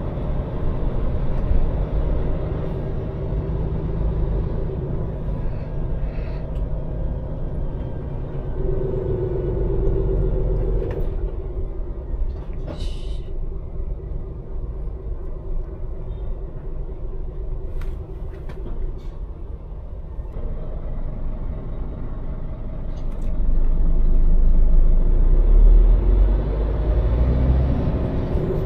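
Scania lorry's diesel engine running with a steady low rumble, heard from inside the cab, with a short high hiss about halfway through. It grows louder for a few seconds near the end.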